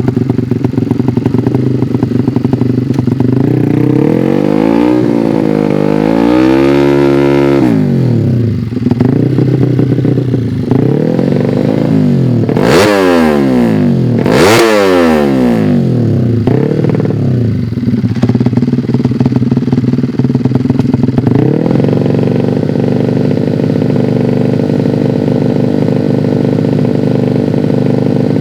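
Tuned 200cc underbone drag bike engines running loudly and being revved at the line: pitch swings up and down a few seconds in, two sharp high throttle blips about halfway, then a steadier fast idle.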